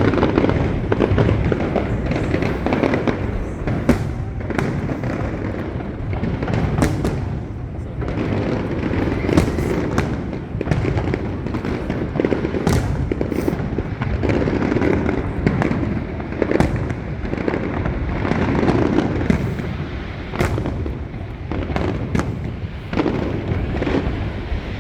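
Fireworks display: a steady, dense run of booms and rumbling, with many sharp cracks overlapping throughout.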